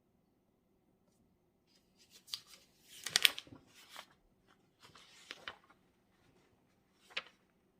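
Paper being handled at a desk: a run of rustling and scraping from about two seconds in to nearly six, loudest around three seconds, then a single sharp click near the end.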